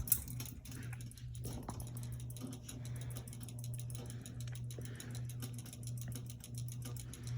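Hampton Bay Landmark III Plus ceiling fan running on high and still speeding up: a steady low motor hum with a fast, light ticking over it.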